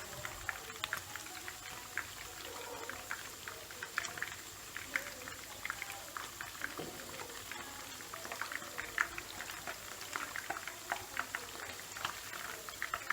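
Chicken wing pieces deep-frying in hot oil: a steady sizzle with many irregular crackles and pops.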